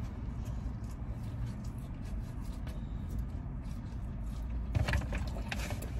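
Low, steady rumble of a car idling, heard from inside the cabin, with a few soft clicks about five seconds in.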